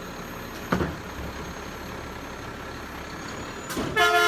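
Recycling truck's engine running steadily, with a single sharp knock about a second in, then the truck's horn giving a short loud toot near the end.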